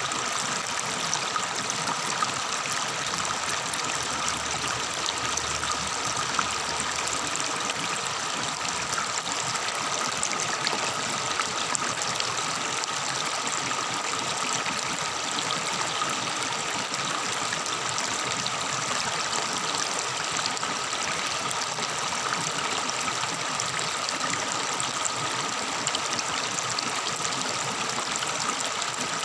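Water of a tropical forest stream babbling steadily.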